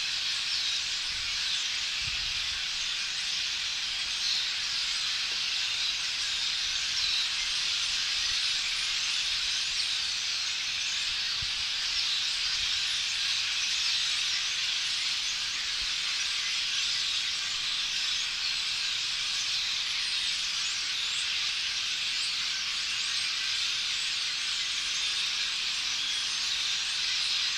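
A large flock of blackbirds, some of them red-winged blackbirds, calling all at once: a continuous, even wash of many overlapping high chirps and squeaks, making a lot of noise.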